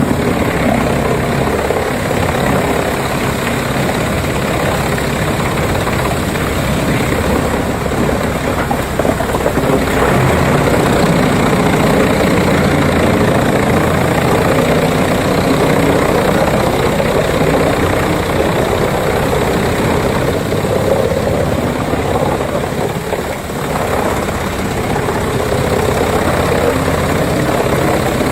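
Wood chipper's engine running loudly and steadily, with a brief dip in loudness about two-thirds of the way through.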